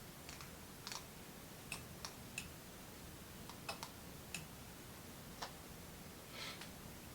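About a dozen light, irregular clicks and taps, small hard objects being handled, over a faint room hum. A slightly longer soft scrape comes near the end.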